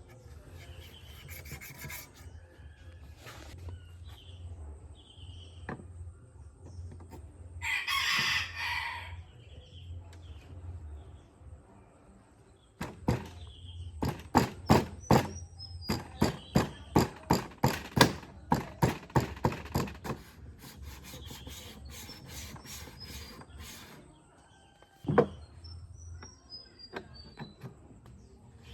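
A run of about a dozen regular rubbing or scraping strokes, roughly two a second, from hand work on a metal or wood part, with a short noisy burst before it and small birds chirping in the background.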